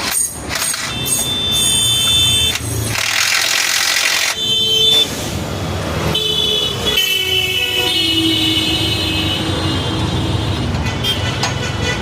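Busy road traffic: vehicle engines running past with horns honking several times, and a loud hiss lasting about two seconds partway through.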